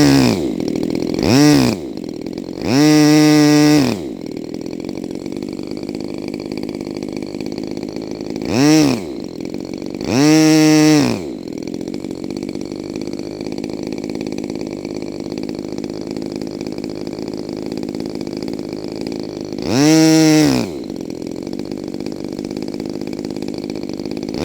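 Small petrol RC model-airplane engine during break-in, running steadily and revved up six times in short blips that rise and fall in pitch, three of them held for about a second. It is running on a rich mixture, which the owner calls too much fuel.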